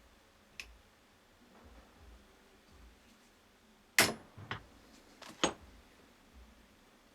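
A few sharp metallic clicks and knocks as universal-joint parts and tools are handled, one faint tick early and then a cluster of four louder knocks about four to five and a half seconds in, the first of them the loudest.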